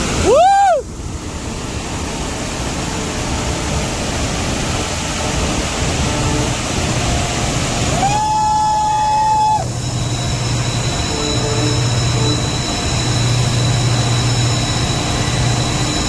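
Train horn sounding twice, a short blast then a longer one of about a second and a half, each swooping up in pitch and dropping off, followed by the steady low drone of the locomotive's engine. A steady rushing noise runs underneath.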